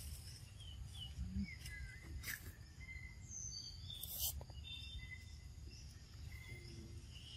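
Faint outdoor ambience: scattered short bird chirps over a steady low rumble, with two sharp clicks, about two and four seconds in.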